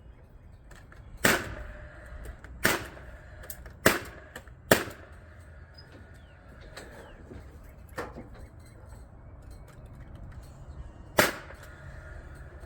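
Nail gun firing single shots to tack in soffit boards: five sharp shots and one fainter one, irregularly spaced, with a long pause before the last.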